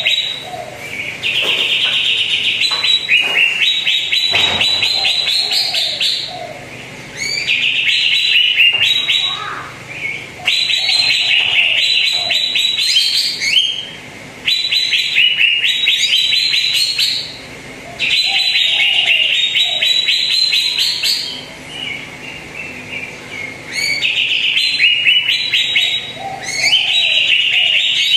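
Cucak ijo (green leafbird) singing loudly in repeated phrases of rapid trilled notes, each phrase lasting a few seconds with short pauses between, used as a lure song to trigger another cucak ijo to sing.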